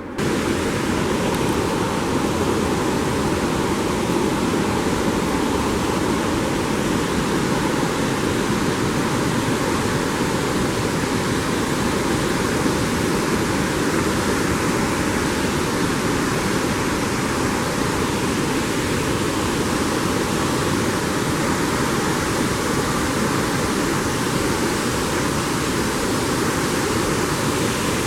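Waterfall crashing down in a steady, loud rush of water, unbroken and unchanging.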